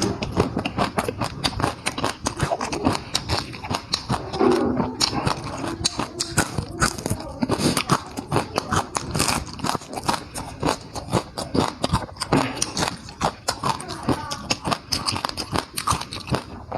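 Close-miked eating: a mouth chewing and biting food, a rapid, irregular run of clicks and crackles several times a second.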